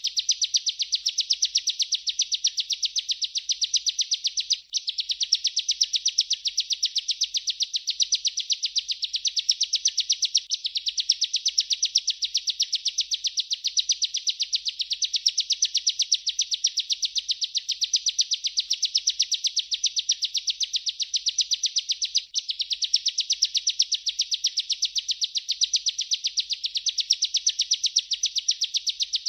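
Bar-winged prinia (ciblek) singing an unbroken, rapid, high-pitched trill, the rolling 'ngerol' song. It is interrupted only by brief gaps about five, ten and twenty-two seconds in.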